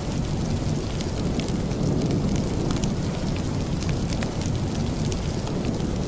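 Steady rain, an even low rush with scattered sharp ticks through it.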